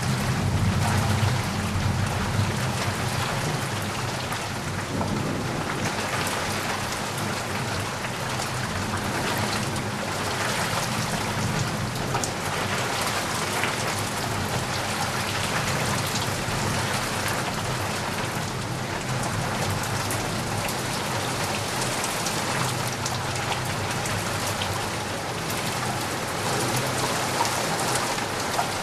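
Steady rain falling with a dense patter, and a low rumble of thunder in the first couple of seconds.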